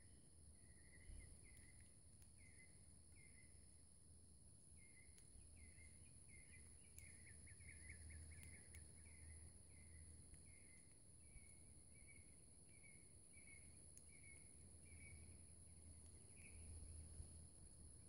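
Faint bird chirping: a steady string of short chirps, about one or two a second, with a quick run of them near the middle. A steady high insect buzz and a low rumble lie underneath.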